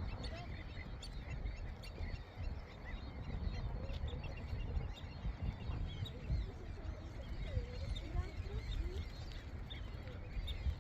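A large flock of waterbirds calling over one another: many short wavering calls and small chirps, with no pause, over a steady low rumble.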